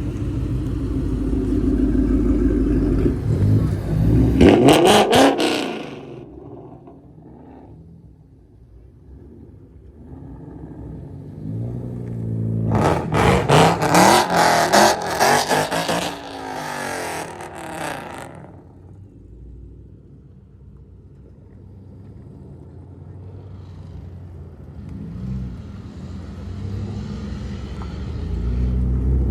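Car engines revving hard at a car meet: a loud rev about four seconds in, then a longer spell of hard revving about twelve to eighteen seconds in, with engine rumble between and a rumble building again near the end.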